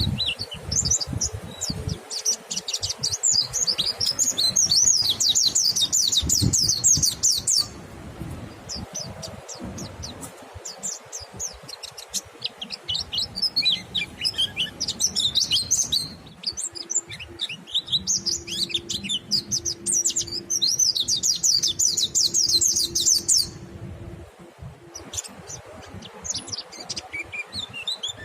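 Mountain white-eyes (pleci monty) singing in the wild 'ngalas' style: long runs of fast, high twittering song lasting several seconds each, with short breaks between them.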